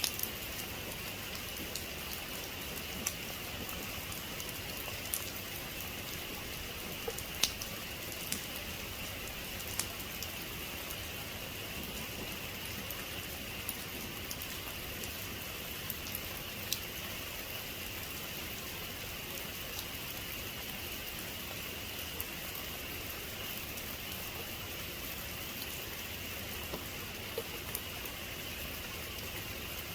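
Steady rain falling on a surface, with scattered sharp drip clicks standing out above the constant hiss.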